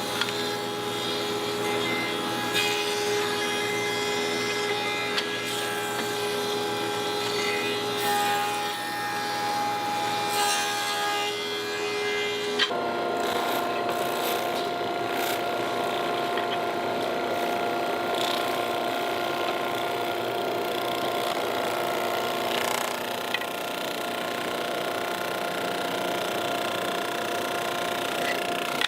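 A woodworking power tool running and cutting into wood, with a steady motor hum; the sound changes about 13 seconds in to a different tone.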